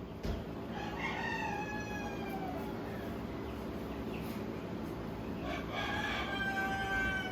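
A doe goat in labor screaming twice, each long cry held and then falling away at the end. She is a first-time freshener straining through contractions to move the kid into the birth canal.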